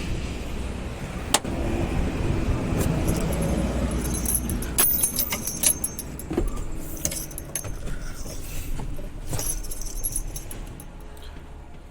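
Truck keys jangling among sharp clicks and knocks as the truck's cab is opened, over a low rumble.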